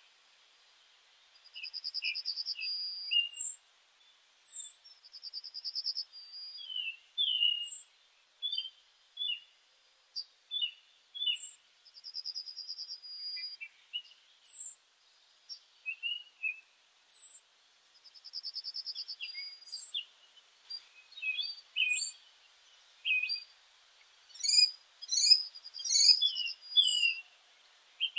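Several songbirds calling: a short high note repeated every second or two, rapid trilled phrases, and scattered chirps, growing busier near the end.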